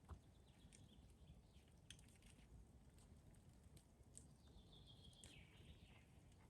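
Near silence, with faint bird chirps, one falling call about four seconds in, and a few soft ticks.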